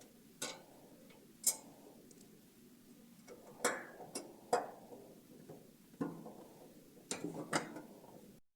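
Screwdriver and screws clicking and knocking against a metal computer case as an optical drive is screwed back into its bay: a series of sharp, irregularly spaced clicks.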